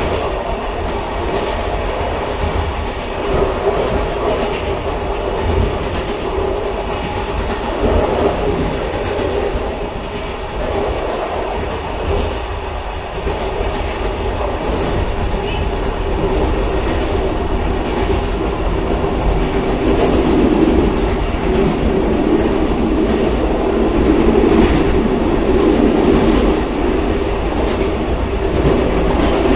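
Railcar running on the track: a steady rumble with a droning band that swells somewhat in the second half, and a few faint clicks.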